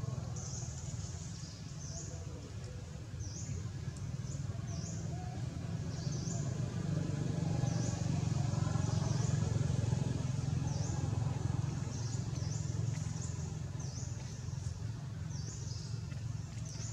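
A bird's short high chirps repeat about once or twice a second over a steady low rumble that swells a little midway.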